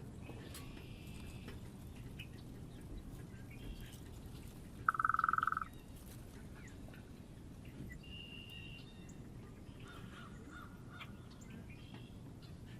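Animal calls around a backyard bird feeder: several brief high-pitched calls scattered through, and one loud buzzy trill lasting under a second about five seconds in.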